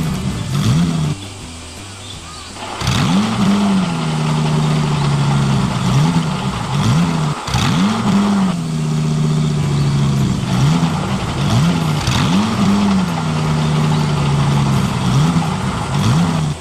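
Engine sound of a remote-control construction model, revving up and dropping back over and over, about once a second. It dips quieter between about one and three seconds in.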